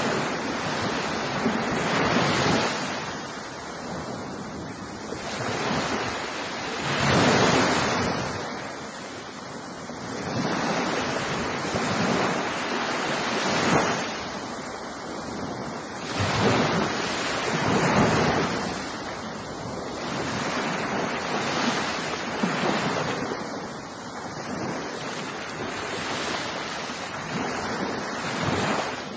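Ocean surf: waves breaking and washing up the shore in repeated surges, each rising and falling away over a second or two.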